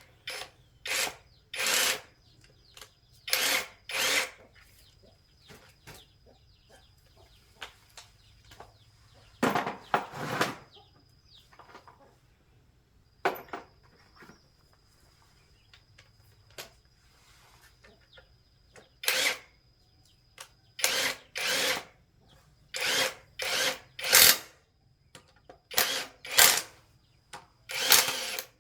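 Repair-bench tool work: short bursts of tool noise, irregular strokes about a third of a second long with pauses between, over a faint steady high whine.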